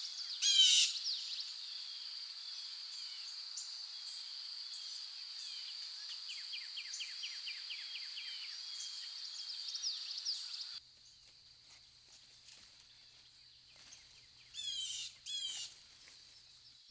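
Birds singing over the steady hiss of a small trickling woodland stream: a sharp burst of falling chirps just after the start, and a quick trill of repeated down-slurred notes, about five a second, in the middle. About eleven seconds in the stream hiss cuts away, leaving quiet woodland with two short bursts of bird calls near the end.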